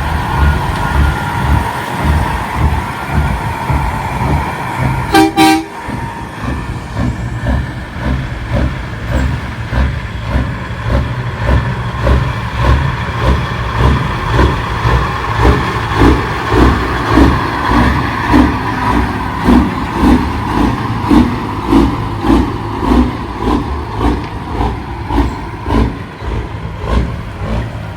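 Big-rig truck diesel engines running loudly with an even, throbbing pulse, and a short horn blast about five seconds in.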